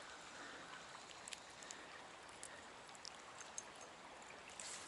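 Faint, steady rush of a flowing trout stream, with a few light clicks scattered through it.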